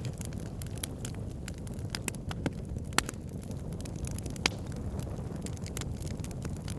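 Wood fire burning in a fireplace: a steady low rumble of flames with scattered sharp crackles and pops, the loudest snaps about three seconds in and again about four and a half seconds in.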